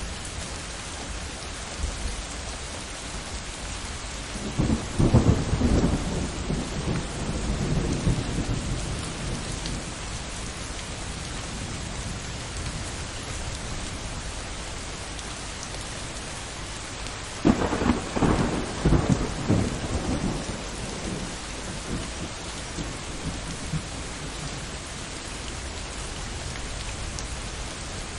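Steady heavy rain falling, with two rolls of thunder: one rumbling about four seconds in for several seconds, and a second, sharper clap about seventeen seconds in that rumbles on for a few seconds.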